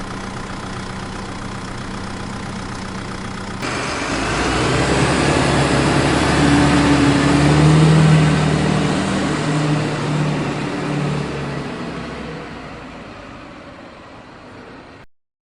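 A vehicle engine idling steadily, then after a sudden cut a louder engine sound that swells and fades away as if the vehicle passes, stopping abruptly near the end.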